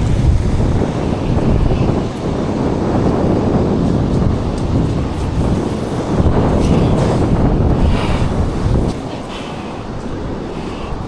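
Wind buffeting the microphone: a heavy, steady rumble that eases a little about nine seconds in.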